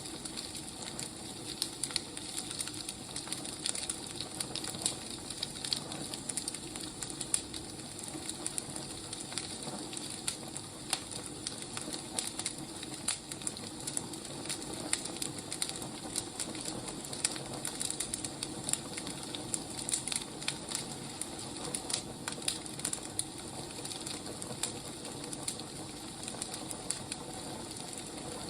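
Firewood burning with steady irregular crackling and popping over a soft hiss.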